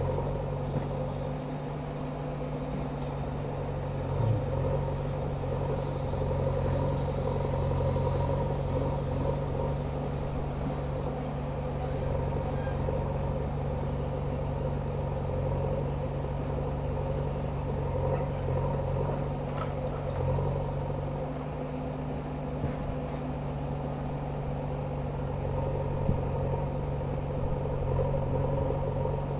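Diesel engine of a JCB 3DX backhoe loader running steadily at working speed, with a few brief knocks.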